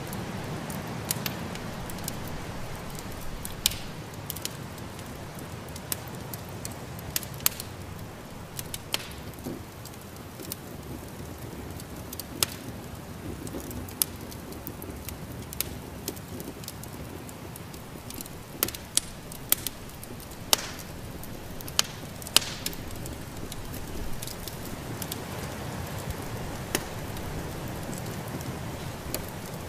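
Wood fire crackling in a fireplace: irregular sharp pops and snaps, some loud, over a steady low rushing noise that swells a little near the start and near the end.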